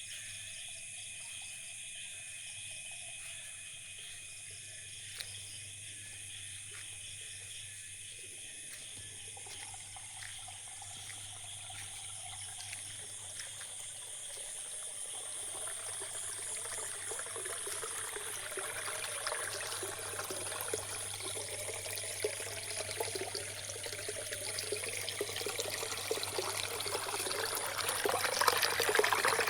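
Water trickling and pouring. It comes in about a third of the way through and grows steadily louder toward the end, with steady high-pitched tones in the background.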